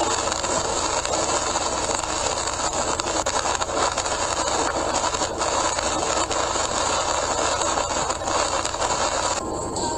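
Car driving at highway speed in heavy rain, heard from inside the cabin: steady tyre and rain noise on a wet road with a low drone, the hiss dipping briefly near the end.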